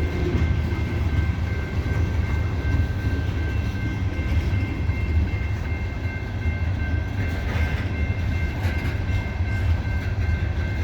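Loaded coal hopper cars of a freight train rolling slowly past at crawling speed up a grade: a steady low rumble of wheels on rail, with a faint steady high-pitched squeal.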